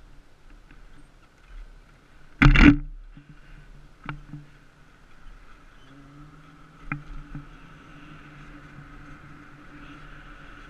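Muffled, steady vehicle hum heard through a GoPro's waterproof housing, with one loud knock about two and a half seconds in and a couple of lighter clicks later.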